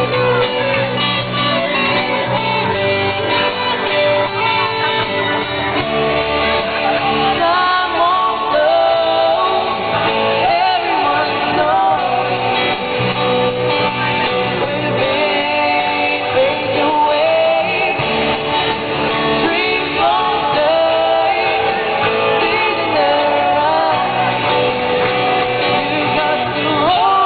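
A live band playing a song, with a singer over guitars and drums.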